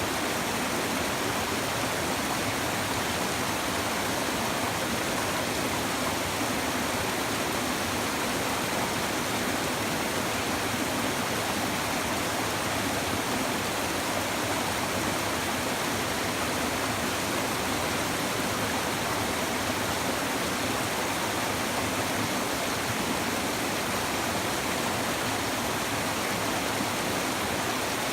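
A shallow river babbling and rushing in a steady, unbroken flow of water.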